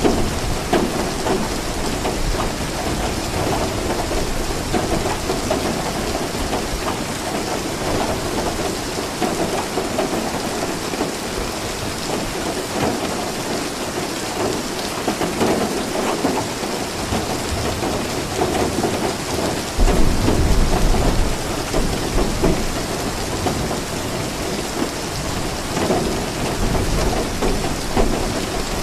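Steady rainfall hissing evenly, with a low rumble of thunder that comes in suddenly about two-thirds of the way through and lasts a couple of seconds.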